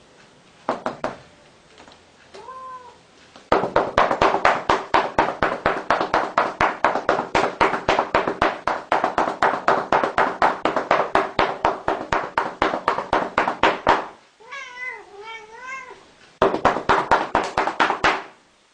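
A domestic cat meowing, then a long run of rapid, evenly spaced pats, about four to five a second, each with a short clipped cry. A wavering meow follows, then another quick run of pats and cries.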